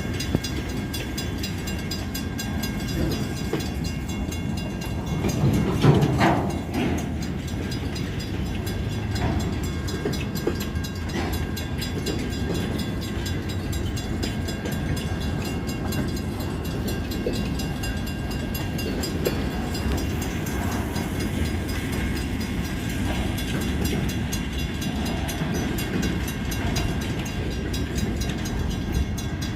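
Freight train's cars rolling along the rails with a steady low rumble, and one louder burst about six seconds in.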